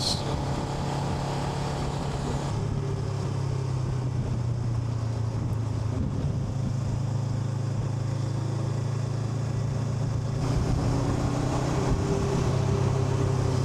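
Honda NX500's parallel-twin engine running while riding. The engine note eases off about two seconds in and picks up again near the end.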